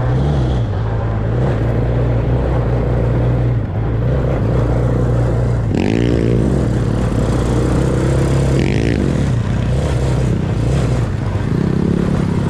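Small off-road vehicle engine running steadily while riding, with the engine note briefly rising and falling about halfway through and again a few seconds later.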